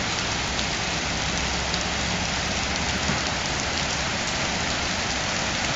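Steady rushing of water, an even hiss without breaks, from the flood-swollen river or the heavy hurricane rain.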